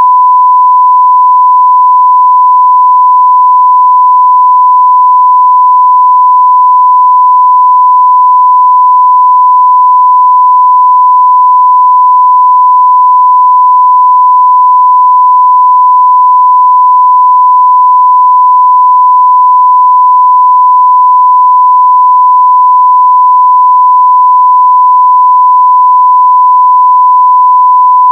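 1 kHz sine-wave audio test tone at 0 dB full scale: a single loud, steady tone with no change in pitch or level.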